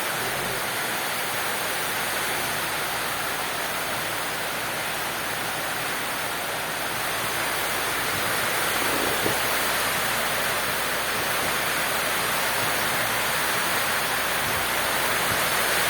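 Heavy tropical rain falling steadily, a continuous dense hiss that grows a little louder in the second half as the storm comes on.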